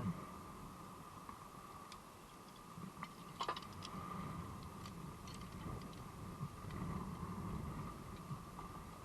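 Wind rumbling on the microphone with a steady faint hum, and a few sharp clicks, the loudest about three and a half seconds in.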